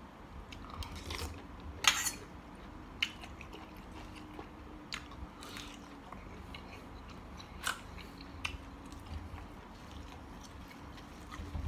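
A person chewing and biting mouthfuls of spicy Thai mixed seafood salad with squid and shrimp: scattered short crunches and clicks, with one louder crack about two seconds in.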